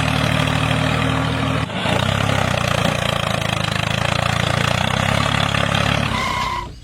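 An engine running steadily at an even speed, dipping for a moment about two seconds in; a short beep-like tone sounds near the end just before it cuts away.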